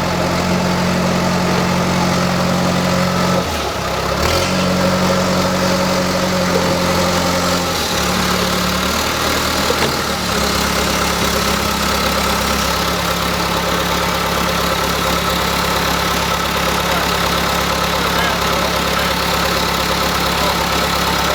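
Engine running steadily, its pitch shifting to new speeds several times in the first half and then holding steady.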